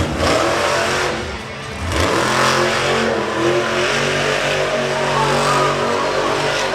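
Hooked monster truck's engine revving hard: a loud burst at the start, then a sustained high-revving run from about two seconds in, wavering slightly in pitch.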